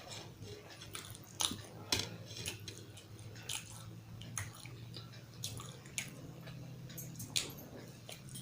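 Close-miked chewing and wet mouth smacks of a person eating a meal of dal, rice and curries, with sharp smacking clicks every second or so over a low steady hum.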